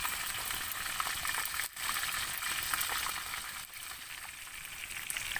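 Chicken pieces frying in hot oil in a small metal pan over a wood campfire: a steady sizzle with scattered crackles, which drops out for an instant about a second and a half in.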